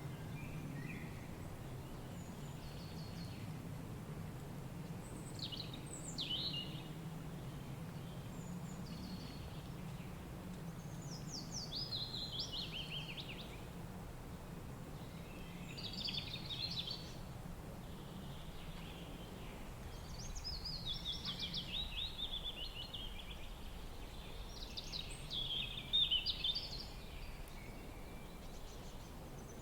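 Wild birds singing short phrases of quick, mostly falling notes, one every few seconds, over a steady low rush of wind.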